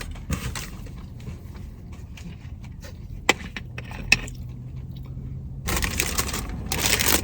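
Crunching of a hard-shell taco being bitten and chewed, in bursts, with two sharp clicks in the middle and a louder stretch of crunching near the end.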